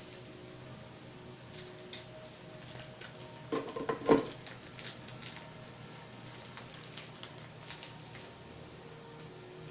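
Light clicks and taps of kitchen items being handled, with a louder clatter about four seconds in.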